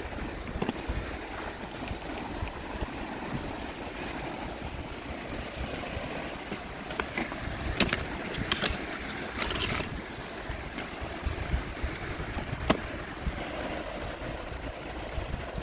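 Small plastic toys and packaging being unboxed by hand: scattered sharp clicks and crinkling, with a louder rustle about halfway through, over a low steady background hum.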